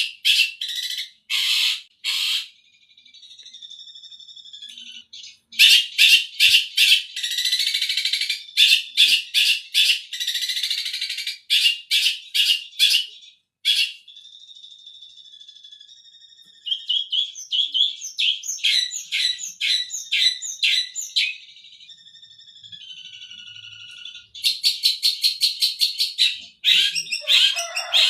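Long-tailed shrike singing in bursts of fast, sharp repeated notes, with softer, quieter warbling in between. The bird is mimicking kingfisher (tengkek buto) calls.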